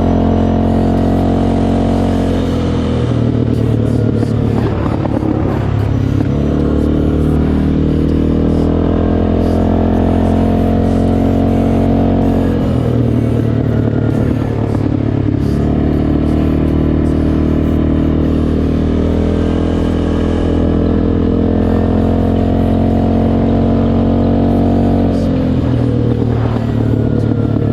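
CFMoto 625 ATV's single-cylinder engine running through an aftermarket RJWC crossflow exhaust, its pitch and roughness rising and falling as it is revved and ridden.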